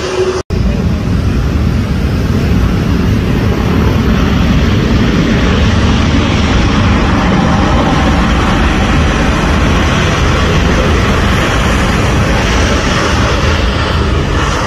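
Aircraft engine noise from a plane passing close by: a loud, steady rushing sound, heaviest in the low end, swelling slightly midway. It starts abruptly half a second in after a brief dropout.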